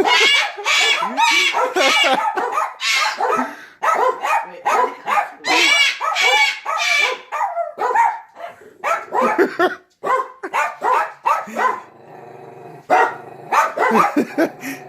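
Cockatoo giving loud, harsh calls in rapid runs, dog-like barks one after another, with a short lull about three-quarters of the way through.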